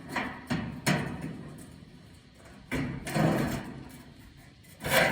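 Clunks and thuds of a tractor's sheet-metal top hood panel being worked loose and lifted off: a few sharp knocks in the first second, then louder rattling thuds about three seconds in and again near the end.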